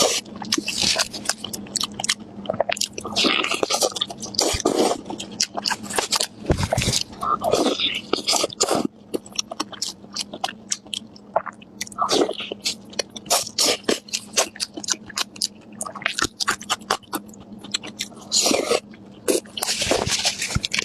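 Close-up chewing and biting of spicy pork chops: irregular wet mouth sounds, crunches and smacks, coming in uneven clusters.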